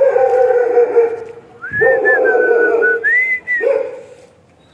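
Dogs crying out in three loud, long yelping whines, the second with a high wavering, whistle-like line over it.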